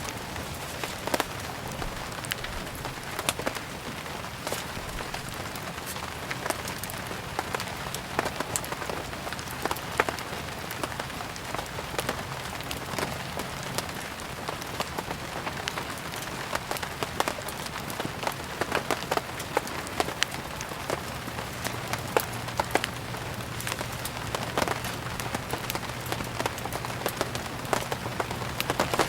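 Steady rain falling, mixed with frequent sharp irregular crackles and pops of a burning wood fire.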